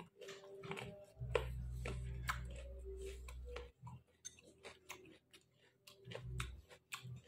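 A man chewing roasted pork close to the microphone, making a run of irregular short clicking mouth sounds. A low hum comes in about a second in and lasts about two and a half seconds, and a shorter one follows near the end.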